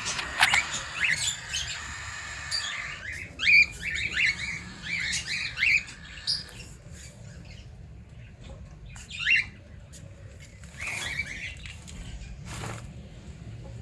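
Cockatiels calling in short, rising chirps and squawks: a quick run of calls for the first six seconds, then a few scattered calls.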